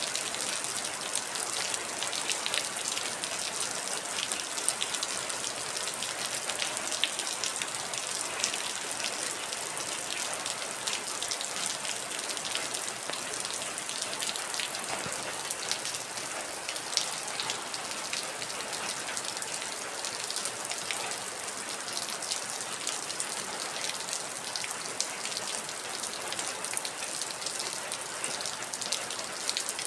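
Heavy rain falling steadily, a dense hiss of drops striking a surface with scattered sharper drop ticks.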